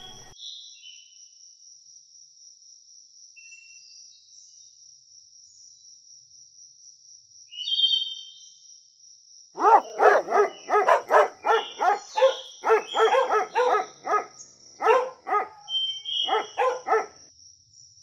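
Akita puppies barking and yipping in quick succession, a dozen or so short barks over about seven seconds starting about halfway in. Before that it is quiet apart from a faint steady high whine and one brief high squeak.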